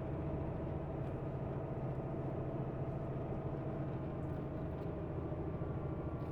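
Semi tanker truck's diesel engine running steadily, a continuous low drone with no change in pitch.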